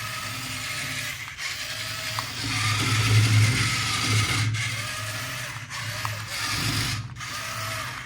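Small electric motor and gearbox of a remote-control toy vehicle whirring, with a faint whine, broken by short pauses every second or two.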